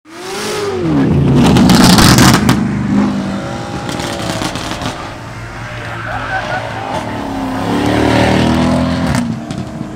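High-performance car engines revving and accelerating hard, their pitch climbing and falling. Loudest about two seconds in, with a second surge about eight seconds in.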